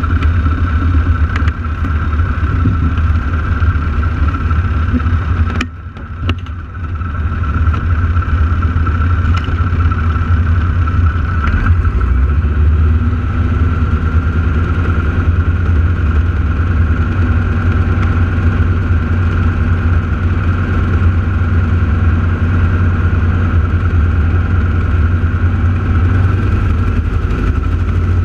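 Steady drone of the Aeroshell team's piston aircraft engines during the routine, holding an even level, with a brief dip and a few clicks about six seconds in.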